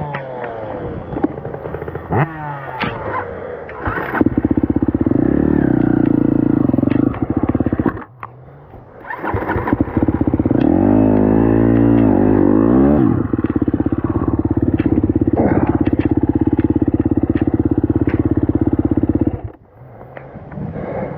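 Four-stroke dirt bike engine, a KTM SX-F 250, held at high revs for long stretches with the throttle blipped up and down in the middle. The engine drops back sharply near the end.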